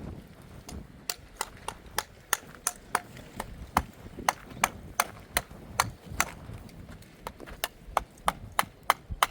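Rapid, regular sharp knocks, about three a second, starting about a second in and continuing steadily.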